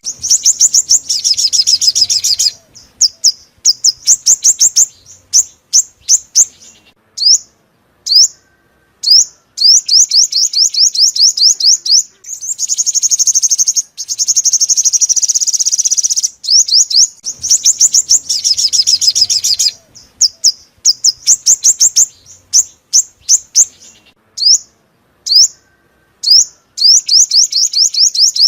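Sunbird song: bursts of fast, high trills alternating with runs of single sharp chirps, the same phrase sequence coming round again partway through as a repeated lure recording.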